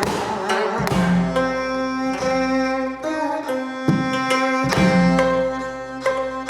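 Korean traditional instrumental ensemble: steel-string gayageum plucking a Namdo folk melody against long held bowed notes of the ajaeng, with a few drum strokes from the janggu keeping the rhythm.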